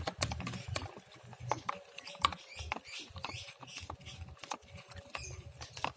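A spoon stirring a thick paint mixture in a bowl, with irregular clinks and scrapes against the bowl.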